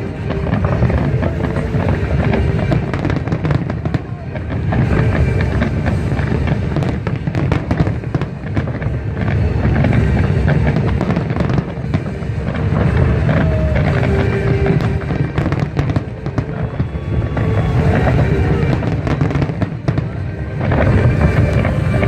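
Fireworks display: a dense, unbroken barrage of deep booms and crackling bangs, with music playing alongside.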